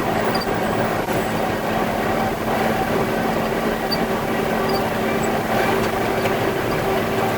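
Concrete mixer truck's diesel engine running under heavy load on a steep climb, a steady drone with a constant whine that holds one engine speed throughout.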